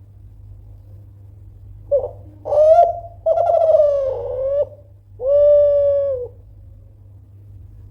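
Spotted dove of the Kelantan song type (derkuku/tekukur) cooing: one phrase of four notes starting about two seconds in, two short ones, a longer wavering one, then a long steady final coo.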